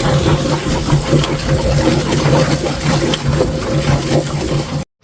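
Chicken plucker running steadily, its motor humming under the noise of spraying water. It cuts off abruptly near the end.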